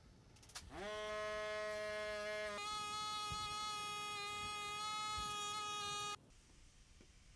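A steady buzzing tone that glides up as it starts, jumps to a higher pitch about two seconds later, then stops abruptly.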